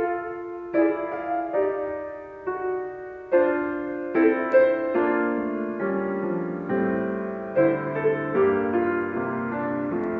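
Solo piano playing a slow, gentle introduction in sustained chords, a new chord struck roughly every second and left to ring.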